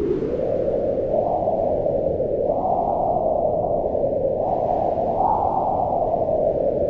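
Howling mountain wind: a steady rush whose pitch swells up and slides back down several times as gusts come and go.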